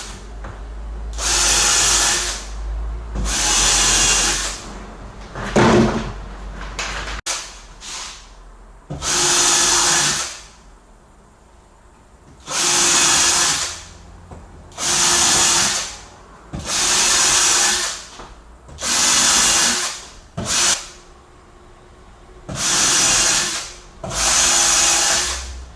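Power drill boring pilot holes through 18 mm plywood into the wooden joists below, in about ten separate runs of roughly a second each with short pauses between holes.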